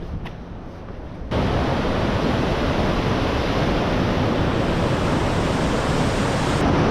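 Nevada Fall's water pouring down, a steady dense rush that suddenly becomes much louder about a second in and stays loud.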